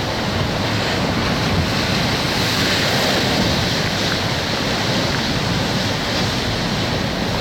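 Storm surf pounding the shore under high winds, with strong wind rushing across the microphone; a steady, unbroken noise.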